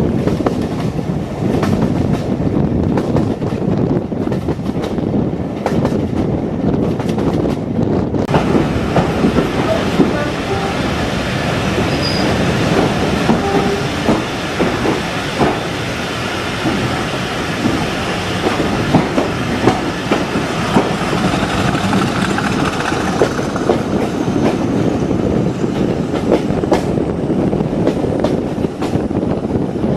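Diesel-hauled train running along the line, its wheels clicking over the rail joints with a steady rumble.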